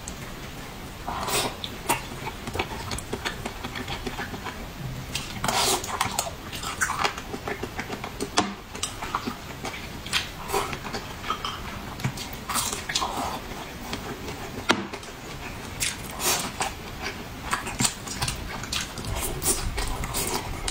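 Close-up eating sounds: wet chewing and lip smacking on mouthfuls of rice and saucy braised pork ribs, a steady run of short smacks and clicks with a few louder crackly ones.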